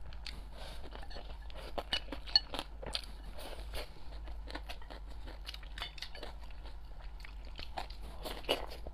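Close-miked chewing and crunching of crunchy food, likely shredded dried radish pickle with rice, as a run of irregular crackles and bites. A couple of louder sharp clicks, about two seconds in and near the end, like chopsticks against a bowl.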